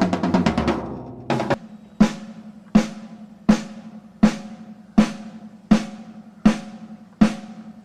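A single drum of a rock drum kit being sound-checked: a fast roll dying away at the start, then single strokes at a steady pace of about four every three seconds, each ringing at the same pitch.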